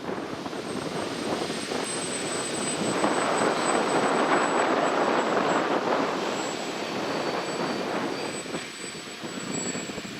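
Radio-controlled model airplane flying past: a thin, high, steady motor whine, with the noise swelling to a peak about three to six seconds in and then fading.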